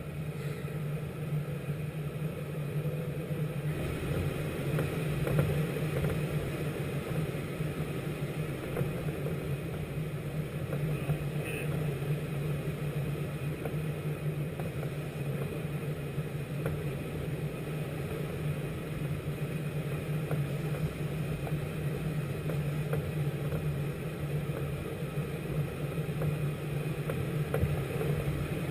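Steady, even drone of a helicopter's engine and rotor.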